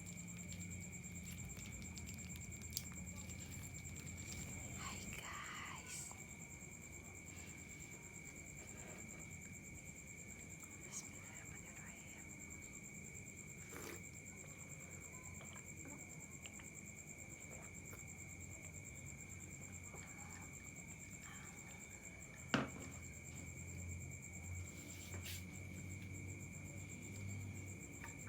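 Faint steady high-pitched whine made of two constant tones, with a few scattered soft clicks and one sharper click about 22 seconds in.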